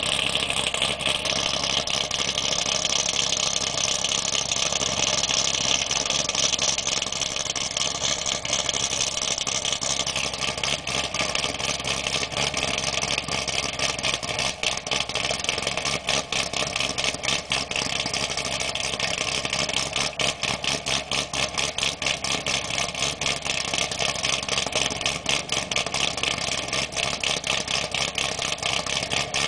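2008 Corvette V8 with an aggressive G6X3 camshaft and long-tube headers idling after a cold start, with a choppy, uneven lope. A steady hiss sits over the engine for about the first ten seconds, then drops away and leaves the pulsing idle.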